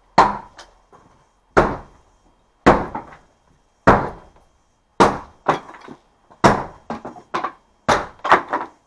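Hammer blows striking the cottage's wooden wall boards and framing to knock them loose, about one strike a second. Some are followed by a smaller rebound knock, and the blows come quicker near the end.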